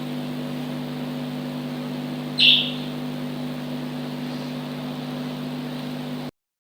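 A single short, shrill lovebird chirp about two and a half seconds in, over a steady low hum. The sound cuts off suddenly near the end.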